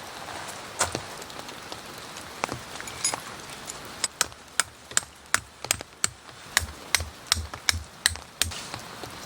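Steady rain falling. From about four seconds in, a run of quick, sharp knocks, two or three a second, comes in and stops about a second before the end.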